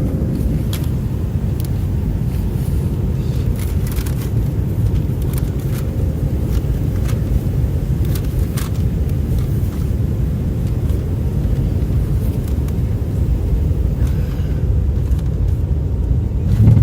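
Airliner cabin noise: a steady low rumble from the engines and airflow, with a few faint clicks and a louder low thump right at the end.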